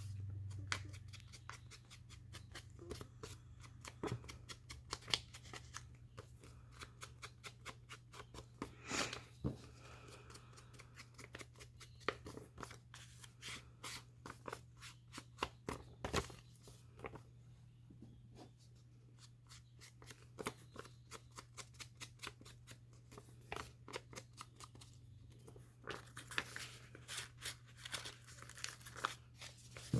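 Scissors cutting paper: runs of quick, short snips, over a faint steady low hum.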